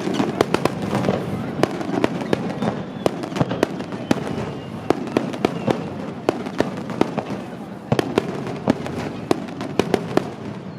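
Starmine fireworks barrage: many shells exploding in quick succession, several bangs a second, over a continuous crackle and rumble.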